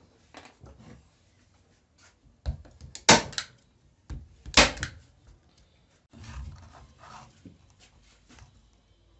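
A series of workshop handling knocks and clatters, with two loud sharp knocks about three and four and a half seconds in.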